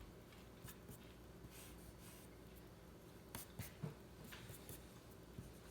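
Faint, scattered strokes of a drawing tool rubbing across paper, several short ones in the middle seconds, while a drawing is tidied up.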